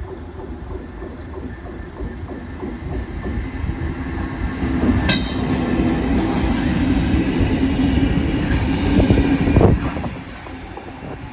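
Diesel locomotive running light engine passing over the level crossing: its engine note and wheel clatter grow louder, with a sharp metallic clatter and a brief wheel squeal about five seconds in, peaking just before ten seconds and then falling away.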